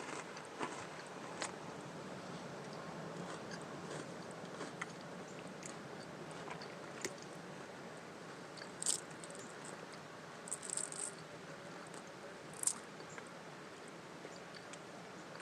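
Someone chewing crunchy crackers close to the microphone: soft crunching and small clicks, with a few short, sharp crackles about nine, eleven and thirteen seconds in.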